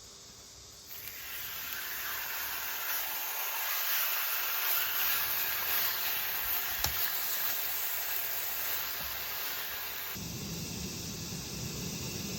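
A steady rushing hiss that starts suddenly about a second in and shifts abruptly near the end, with a single sharp click in the middle.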